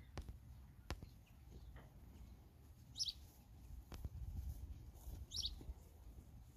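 A small bird chirping twice, short high calls about two and a half seconds apart, over a low rumble of wind on the microphone.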